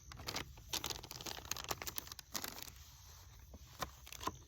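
Plastic MRE packaging crinkling and rustling as it is handled, with a run of short, irregular crackles.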